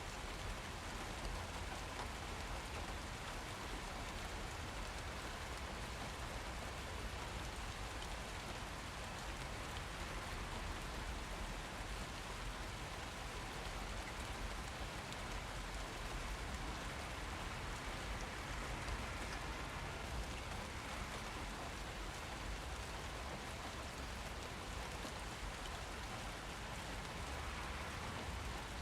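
Steady rainfall: a dense, even patter of rain on hard surfaces, unbroken and without thunder.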